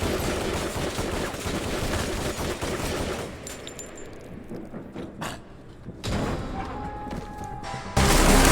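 A volley of rapid gunfire over music, dense for about three seconds and then thinning to scattered shots, with a sudden loud burst near the end.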